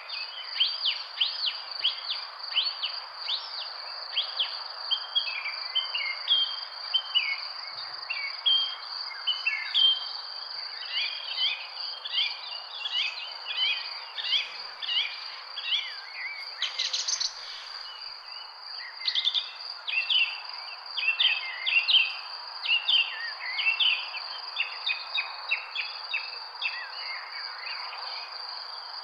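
A chorus of small birds chirping and calling in quick overlapping notes over a steady, unbroken high insect trill, with an even background hiss beneath.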